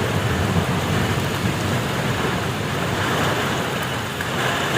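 Heavy downpour and strong wind of a nor'wester thunderstorm, a dense steady rushing, with wind buffeting the microphone.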